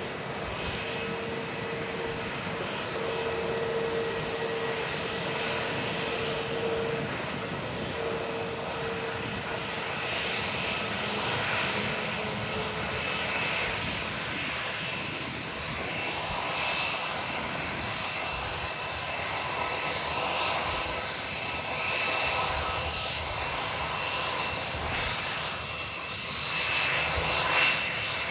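Jet airliner engines running with a steady whine of several thin tones over a broad rush of noise. The rush grows stronger about a third of the way in.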